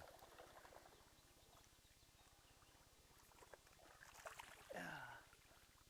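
Near silence, with a few faint clicks and one short, falling, voice-like sound about five seconds in.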